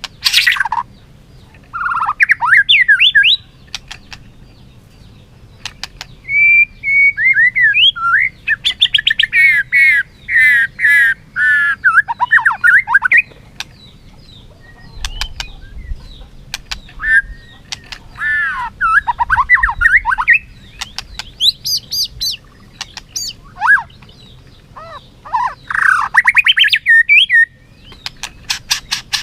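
White-rumped shama singing its combative song: bursts of loud, varied whistled phrases with fast trills and sharp clicks, separated by short pauses.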